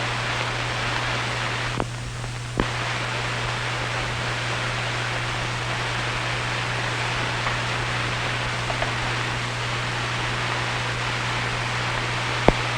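Steady hiss and low hum of an old optical film soundtrack, with a short dip bracketed by two clicks about two seconds in and one sharp click near the end.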